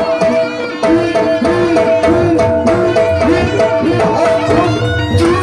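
Live Javanese horse-dance (Turonggo Samboyo) ensemble music: hand drums play fast strokes whose pitch bends up and down, over a long-held high note.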